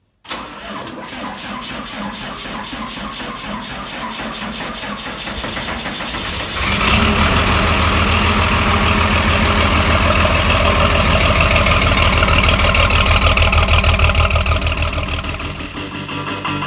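A large farm diesel engine running with a rapid, even firing beat; about seven seconds in it is throttled up and gets louder, then the sound dies away near the end.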